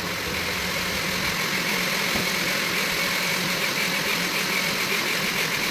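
Electric blender running steadily at one speed, blending a batch of mango, pineapple and ginger for juice.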